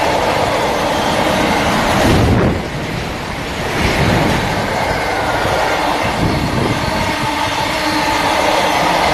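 A train passing close by, its wheels running over the rails in a steady loud rush, with a brief louder swell about two seconds in.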